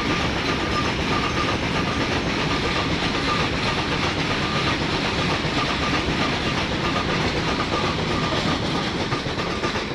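Freight train of open-top wagons rolling past at speed: a steady rumble and rattle of wheels on rail, with a faint high tone coming and going.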